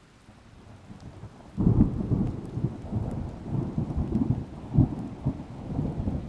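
Thunder: a low rumble building, then a sharp clap about a second and a half in, followed by rolling rumbles with several loud peaks that ease off near the end.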